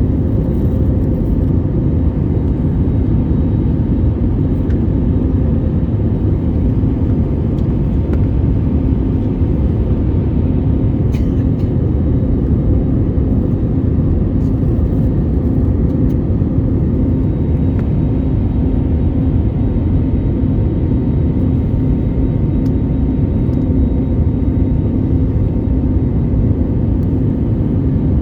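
Steady low rumble of a Boeing 787-8 airliner heard from inside the cabin, even and unbroken, with a faint steady hum over it.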